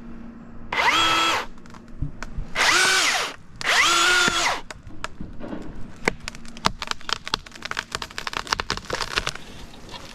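Milwaukee battery-powered chainsaw whining in three short bursts on the trigger, the electric motor spinning up to speed and winding down each time, followed by a few seconds of irregular sharp clicks and cracks.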